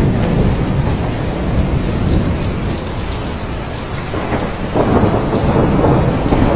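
Thunderstorm: steady heavy rain with rolling thunder rumbling underneath, easing off a little midway and building again in a new roll about two-thirds of the way through.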